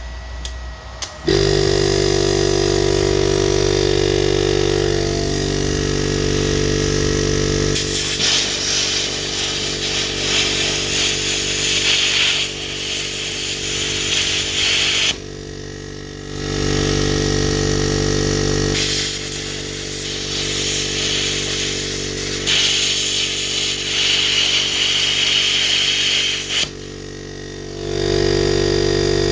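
Multipro Cut 45 plasma cutter with a built-in air compressor. The compressor starts about a second in and runs with a steady hum. Over it come two long stretches of loud hissing from the plasma torch's air and arc, each several seconds long, with short breaks where the sound drops.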